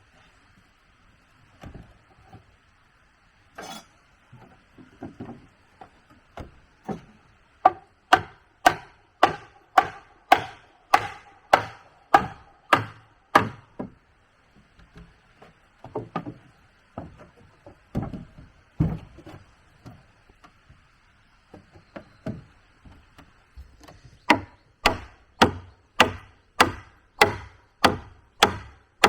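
Repeated chopping strikes into wood. There is a run of sharp blows at about two a second, then scattered lighter knocks, then another quick run near the end.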